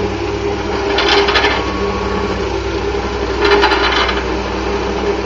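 Diesel engines of an asphalt dump truck and tracked asphalt paver running steadily, with two short bursts of fast metallic rattling, about a second in and again about three and a half seconds in.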